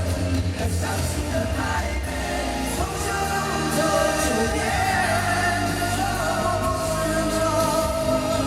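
Live pop-rock concert music: a singing voice holding long, wavering notes over a full band.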